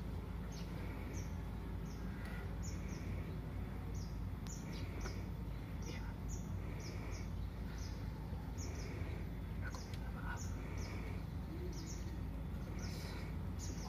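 Birds chirping: short high calls repeating about twice a second over a steady low background rumble.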